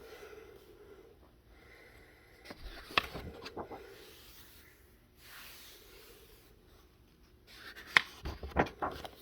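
Paper pages of a colouring book being handled and turned, in two bursts of rustling with sharp snaps: one about three seconds in, the other near the end.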